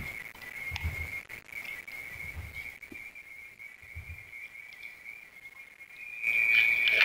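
Burning coconut coir giving off a steady high whistle, with faint crackles and soft low thuds about every second and a half. The whistle grows louder near the end.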